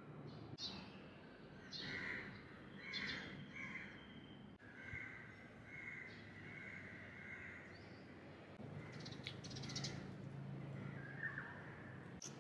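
Birds chirping and calling, with short calls early on and a longer string of notes around the middle, over a faint low background hum.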